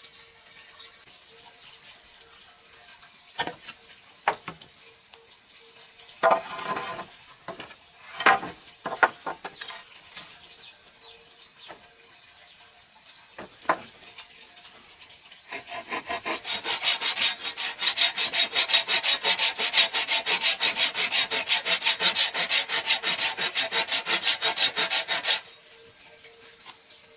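A few scattered knocks of wood being handled, then a hand tool working wood in quick, even back-and-forth strokes, several a second, for about ten seconds before stopping abruptly.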